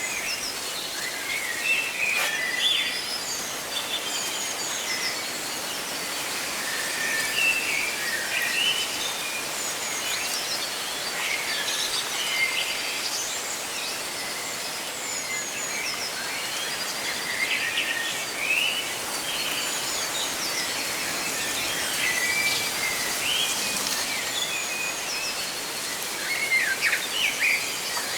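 Several birds chirping and calling, with many short chirps and quick trills, over a steady rustling hiss of leaves in the wind.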